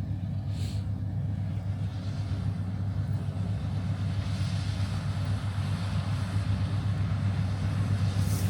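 Heavy diesel harvest machinery running steadily: a deep, even engine drone that holds the same pitch and level throughout.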